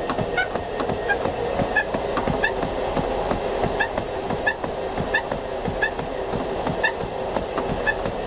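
Pacemaster Gold Elite treadmill running under a jogger, with footfall thuds on the belt and a short, high, chimpanzee-like creaking squeak repeating about every two-thirds of a second. The squeak persists despite a new running belt, silicone lube, belt re-tensioning and a cleaned motor drive belt.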